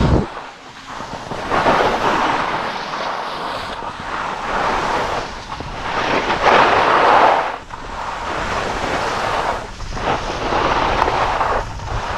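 Wind rushing over the microphone while skiing downhill, mixed with the hiss of skis sliding on snow; the noise swells and fades several times.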